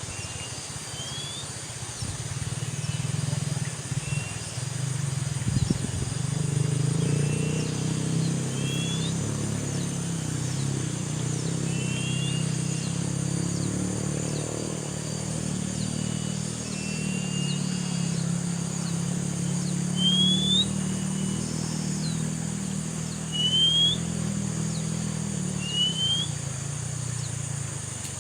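A bird giving short, rising whistled notes, one every few seconds, over a steady high insect buzz. A low motor drone sets in about two seconds in and runs under the calls.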